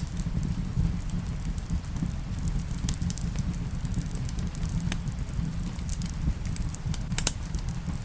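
Wood fire crackling in a fireplace, with scattered sharp pops, the loudest a little under three seconds in, about five seconds in and about seven seconds in. Under it runs a steady low rumble of rain.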